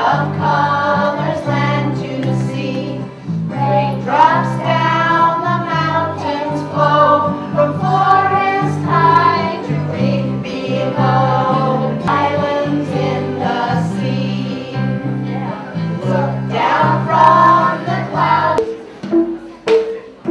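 Children's choir singing a song with instrumental accompaniment, the low accompaniment notes changing in steps under the voices. The singing stops shortly before the end and a few short plucked notes follow.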